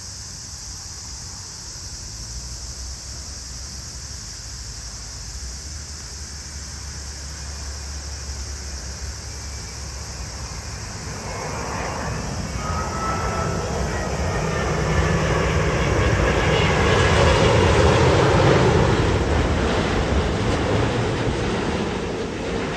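Jet airliner on landing approach passing overhead: engine noise with a faint whine swells from about halfway in, peaks, and starts to fade near the end, over a steady background hiss.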